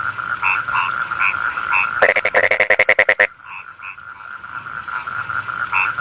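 Rice-field frogs calling in chorus: short croaks repeating over a steady tone. About two seconds in, one frog gives a loud, rapid rattling croak lasting just over a second.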